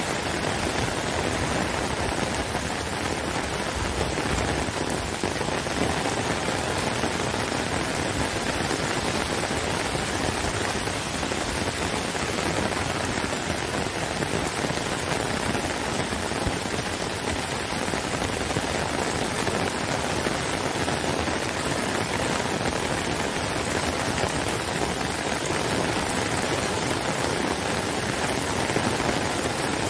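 Heavy rain falling steadily on trees and a wet brick path, a dense, even hiss.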